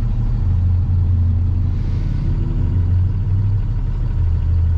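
Freightliner box truck's diesel engine running in traffic, heard from inside the cab as a steady low drone.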